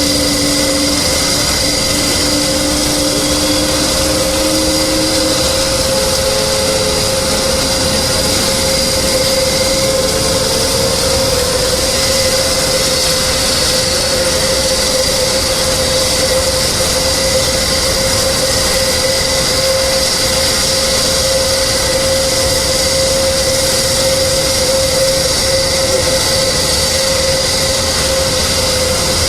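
Jet aircraft engine running steadily: a loud, even roar with a high turbine whine held at a constant pitch, a few lower tones rising slightly in the first several seconds.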